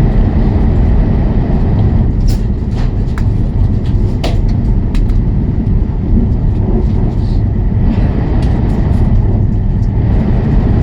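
Cabin noise of a Fuxing CR400BF-Z high-speed train running on the line: a steady low rumble with a few faint clicks scattered through it.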